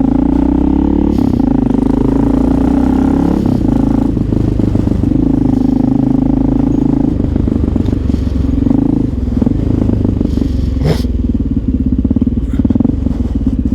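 Honda XR650L's single-cylinder four-stroke engine running under way with a deep rumble, its pitch holding and stepping as it goes through the revs. There is a sharp click about eleven seconds in, and near the end the engine settles to slow, separate firing pulses at low revs.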